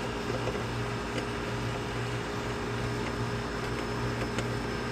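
Steady hum of neighbouring air-conditioning condensing units running, with a few faint clicks from handling.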